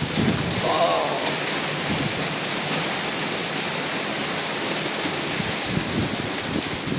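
Heavy rain pouring down in a steady, dense hiss, with a few faint low knocks.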